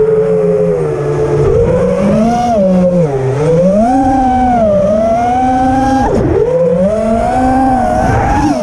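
FPV quadcopter's brushless motors (Karearea TOA 2306 2850KV) and propellers whining, the pitch rising and falling constantly with throttle. About six seconds in the pitch drops sharply and swoops back up.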